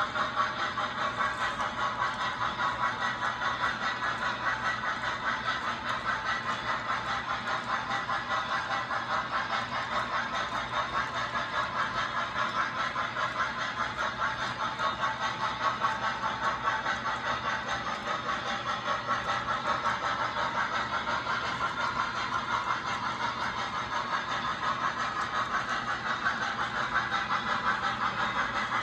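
A long train rolling steadily past, its wheels and cars making an even, rhythmic clatter that goes on without a break.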